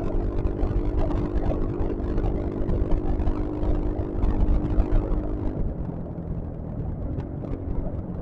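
Yamaha XMAX scooter engine running at a steady road speed over a low rumble. About five and a half seconds in, its pitch drops as the scooter slows.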